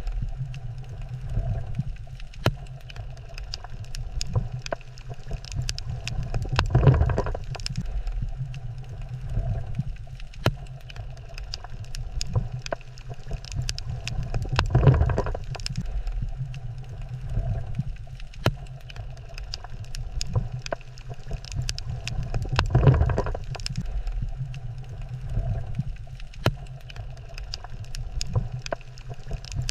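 Underwater coral reef ambience: a steady low rumble with scattered sharp clicks, and a broad surge that swells and fades about every eight seconds.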